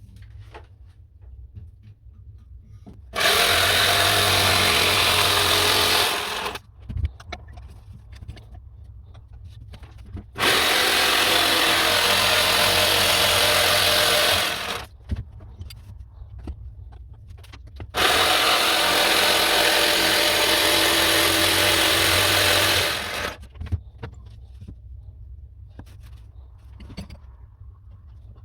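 A power tool working wood, run in three bursts of three to five seconds each, its motor winding down briefly after each burst, with small handling clicks in between.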